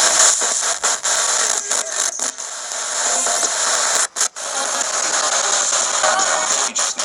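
Spirit box sweeping through radio frequencies: a loud, steady hiss of static, cut by frequent brief dropouts as it jumps between stations, with one longer cut-out about four seconds in.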